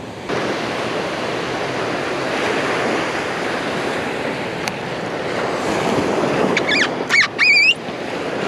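Ocean surf breaking and washing on a beach, a steady rush with some wind on the microphone. Near the end, a few short high-pitched squeaky calls rise and fall over the surf.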